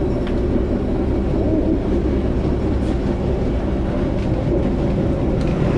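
Passenger train running, heard inside the carriage: a steady low rumble and rolling noise with a constant hum.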